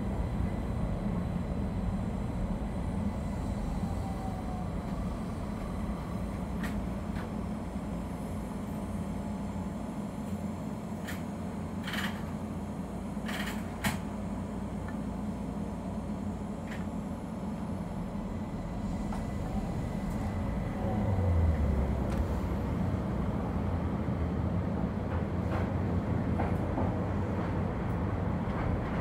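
Keihan 800 series electric train running, a steady low rumble of wheels and motors. A few sharp clicks come about twelve to fourteen seconds in, and a short low swell comes about two-thirds of the way through.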